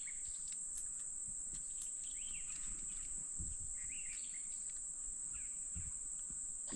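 Quiet stream-side ambience: a steady high-pitched insect drone, with a few short bird chirps about two, four and six seconds in.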